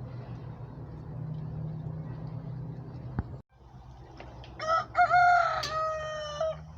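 A rooster crowing once, one call of about two seconds beginning about two-thirds of the way in, over a low steady hum.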